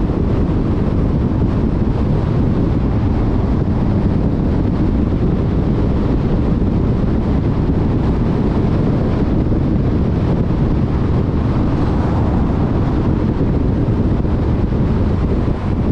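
Steady road noise of a car cruising at freeway speed: a low, even tyre roar mixed with wind noise.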